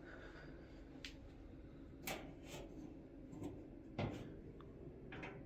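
A few faint, scattered clicks and light knocks of dryer parts being handled and worked loose, over a low steady background.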